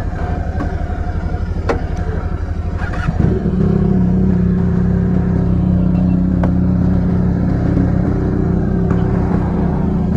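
Motorcycle engine running at low revs, then rising in pitch and loudness about three seconds in and holding a steady note as the bike rides on. There are a couple of sharp clicks in the first few seconds.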